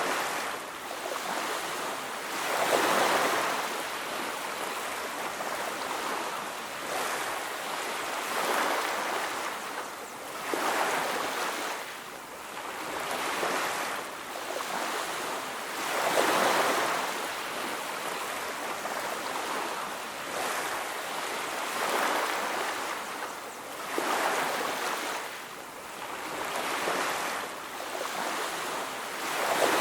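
Ocean surf breaking on a beach, the waves swelling and falling away one after another every two to three seconds.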